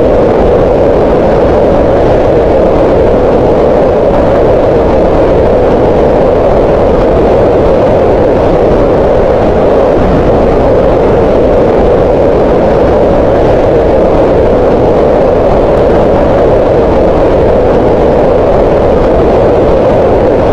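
Green noise: loud, steady synthetic noise centred on the middle pitches, with no change in level.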